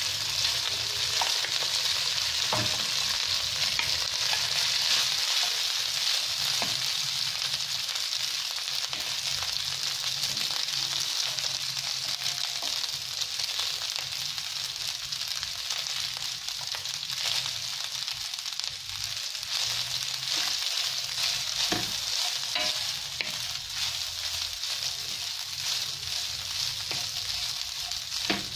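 Cooked rice frying with diced ham and garlic in oil in a nonstick pan: a steady sizzle that eases a little in the second half. Scattered taps and scrapes come from a wooden spatula stirring and spreading the rice against the pan.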